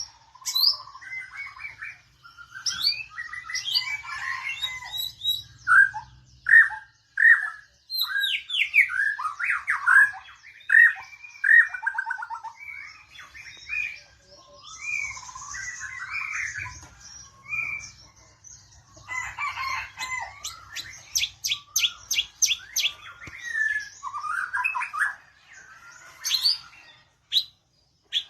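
White-rumped shama singing a long, varied song of rich whistled phrases with short pauses between them, including a quick run of sharp rising notes a little past the middle.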